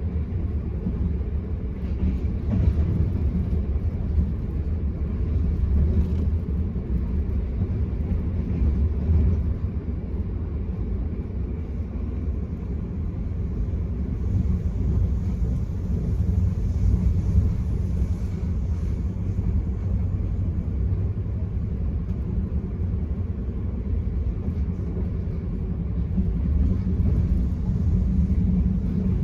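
Running noise of the Enterprise passenger train at speed, heard from inside the coach: a steady low rumble of wheels on rail, with a couple of light knocks in the first few seconds.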